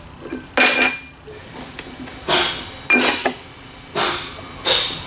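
Metal tools and parts clinking and clanking, about six separate knocks roughly a second apart, some of them with a short metallic ring.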